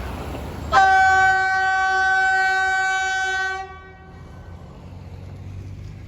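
Freight train locomotive horn sounding one long blast of about three seconds, a chord of several notes that cuts off sharply, over the low rumble of the passing train.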